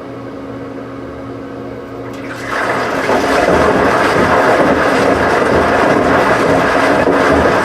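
Washing machine humming steadily, then about two and a half seconds in water suddenly starts rushing through it loudly and keeps going.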